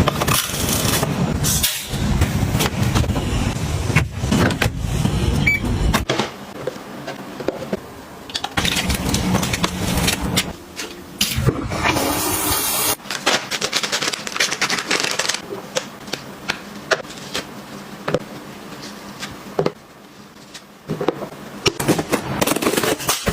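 Household handling sounds: many short clicks, taps and knocks of objects being picked up and set down, over a rustling noise, with a dense low rumble in the first few seconds and a brief hiss about halfway through.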